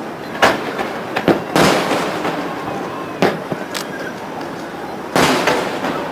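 Aerial fireworks shells bursting: a series of sharp bangs at uneven intervals, several trailing off in a lingering rumble, over a steady background hiss.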